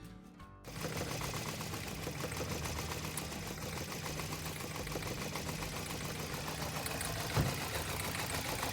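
A small motor or engine running steadily with a low hum and a fast, fine rattle, with one short thump about seven seconds in.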